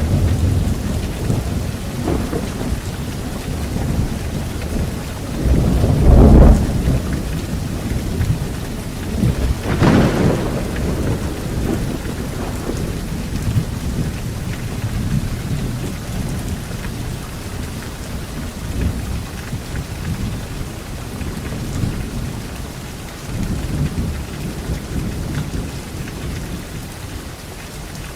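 Thunderstorm: steady rain with rolling thunder. There is a heavy boom about six seconds in and a sharper crack about ten seconds in, and the rumbling eases off toward the end.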